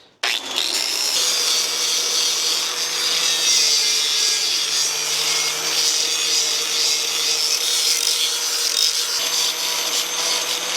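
Electric grinder grinding a weld down on an aluminum wheel: it starts abruptly just after the beginning, then runs steadily under load, a hiss with a steady motor tone beneath it.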